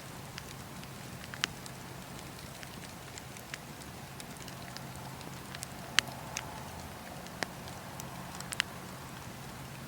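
Wood fire in a fireplace crackling, with scattered sharp pops over a steady low hiss of burning; the loudest pop comes about six seconds in.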